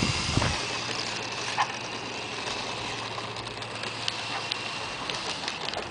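Radio-controlled F4U Corsair model airplane's motor running with a faint, steady high whine, under wind noise on the microphone. A low thump sounds right at the start.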